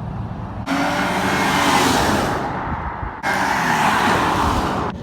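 Car engine and road noise in two loud stretches of about two seconds each, over a low steady rumble; each stretch starts and cuts off abruptly.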